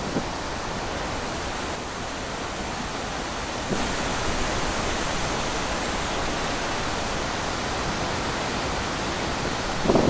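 Steady rushing wind noise that grows a step louder about four seconds in, with a stronger gust near the end.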